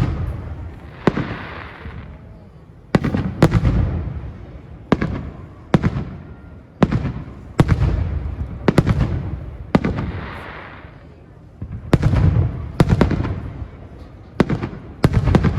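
Aerial firework shells bursting in quick succession: about a dozen sharp bangs, some in close pairs, each with an echoing tail. Twice there is a spell of hissing crackle between the bangs.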